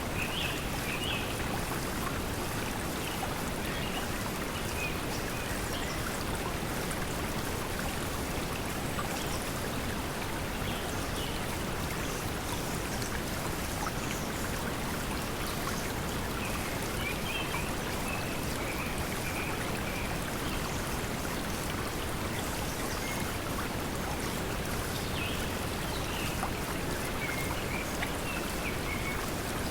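Steady pink noise mixed with flowing stream water, an even hiss-like rush, with brief high bird chirps coming in a few times.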